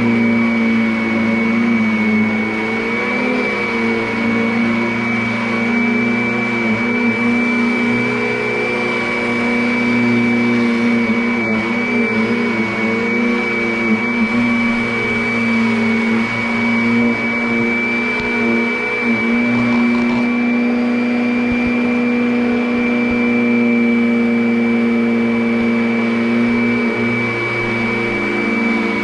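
Vacuum cleaner running steadily, its motor giving a constant high whine over a lower hum, with a few faint ticks about halfway through.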